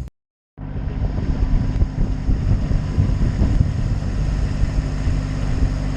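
Vehicle engine running steadily while driving, with road and wind noise. The sound drops out completely for about half a second right at the start.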